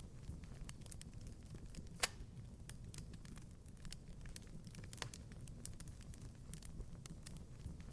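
Wood fire crackling in a fireplace: a steady low rumble with scattered sharp crackles and a few louder pops, the loudest about two seconds in.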